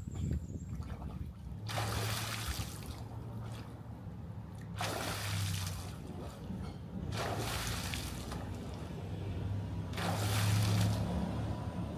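Swimming-pool water sloshing and splashing in four separate surges, each about a second long, over a steady low hum.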